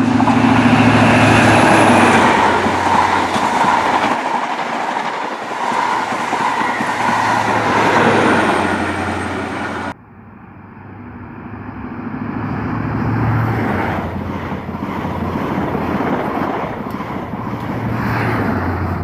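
Diesel engine and wheel noise of a High Speed Train's Class 43 power car running loud close by, with a faint high whine. About halfway through it cuts off abruptly, and another diesel train's noise builds up as it approaches.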